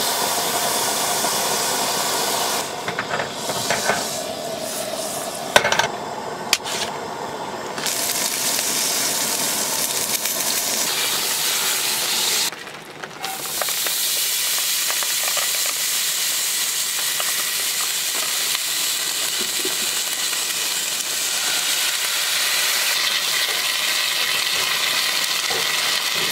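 Supper frying in a pan: a steady sizzling hiss, broken off briefly three times, with a few sharp clinks in the breaks.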